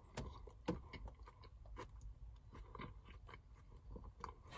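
A person chewing a mouthful of Burger King Whopper close to the microphone: faint, irregular small clicks of the mouth and food, with one louder bite a little under a second in.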